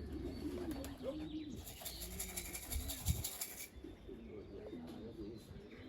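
Racing pigeons cooing repeatedly in low, rising-and-falling coos. A hissing rustle comes about one and a half to three and a half seconds in, with a soft thump near three seconds.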